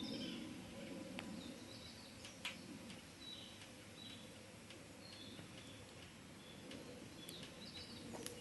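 Fire burning in a Picogrill 498 fire pit, a steady low rushing with a few sharp crackles and pops, the loudest about two and a half seconds in. Birds chirp briefly in the background.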